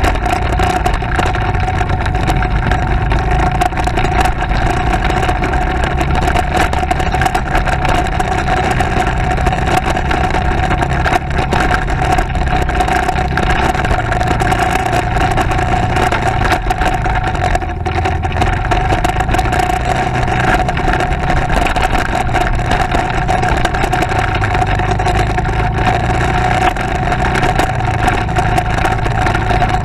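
Motorcycle engine running steadily while riding, with a constant mid-pitched engine tone over a heavy low rumble.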